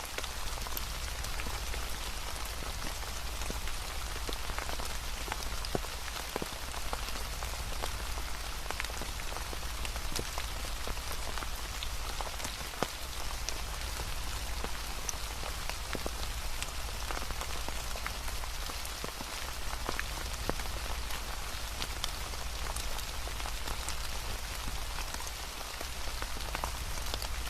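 Steady rain falling on a surface, with many scattered drop ticks and a steady low rumble underneath.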